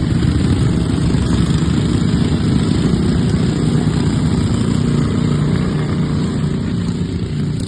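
Racing riding lawnmower engines running steadily under load.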